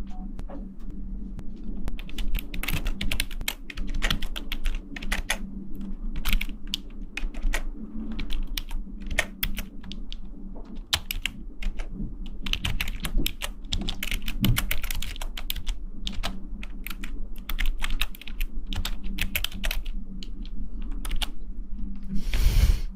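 A fast, irregular run of small clicks and taps, like fingertips or nails on a hard surface, over a steady low hum. A longer brushing rustle comes near the end.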